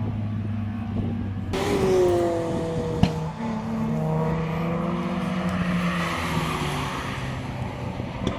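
Rally car engine running, then a loud surge about a second and a half in whose pitch falls away as the car goes by, with a single sharp bang about 3 s in, settling to a steady lower engine note.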